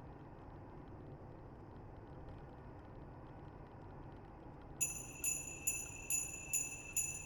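A faint low rumble, then about two-thirds of the way in, sleigh bells start ringing in a steady beat of roughly two shakes a second, as the intro of a music track.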